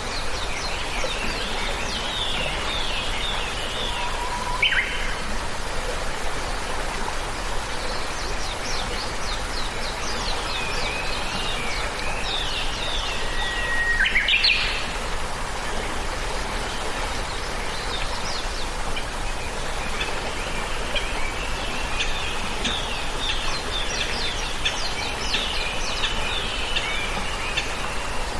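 Birds chirping in quick, repeated high twittering phrases over a steady hiss of background noise, with two louder whistled notes that slide in pitch, one a few seconds in and one about halfway through.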